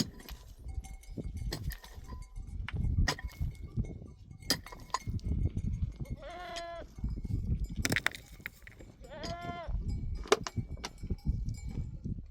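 A goat bleating twice, two arched wavering calls about six and nine seconds in, over scattered sharp knocks and clatter and a low rumble.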